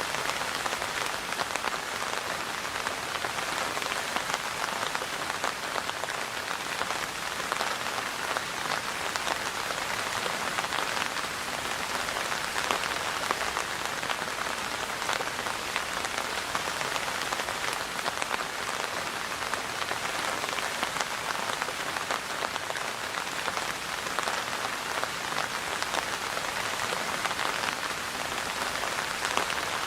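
Steady rain falling, with a dense patter of drops hitting a surface.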